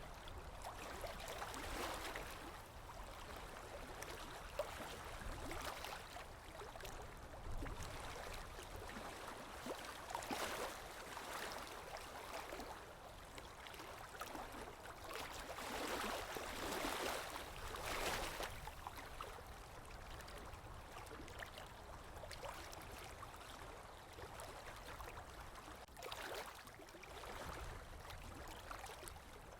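Sea waves washing onto a shore, a steady hiss of surf rising in broad swells every few seconds.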